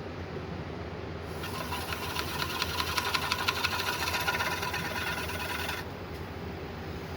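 Wood lathe running with a steady hum. About a second in, a carbide-tipped turning tool starts cutting the spinning yellow cedar and walnut bowl blank: a fast, chattering scrape that stops suddenly after about four and a half seconds.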